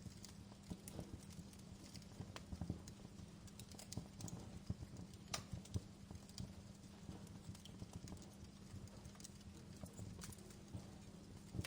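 Wood fire crackling in a fireplace: irregular sharp pops and snaps, a louder snap about five seconds in, over a low steady rumble.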